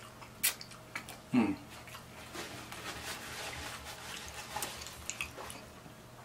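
Close-miked eating sounds: wet smacks and clicks as sauce is sucked off the fingers, with a short downward-sliding sound about a second and a half in, then soft chewing with small clicks.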